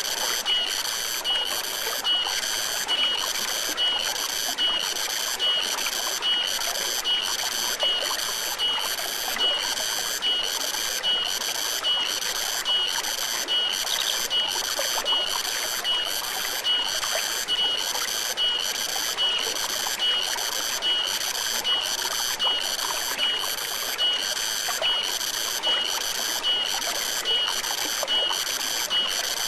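Forest stream flowing steadily, under a loud, even high chirping that pulses a little more than once a second, the steady call of an unseen animal.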